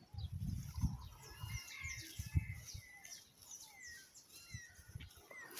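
Birds chirping, many short quick notes throughout. There are low rumbles in the first couple of seconds and a single low thump about two seconds in.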